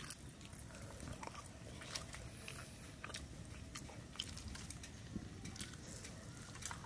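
Close-up chewing of a mouthful of cooked mustard greens eaten by hand, with many small, wet mouth clicks.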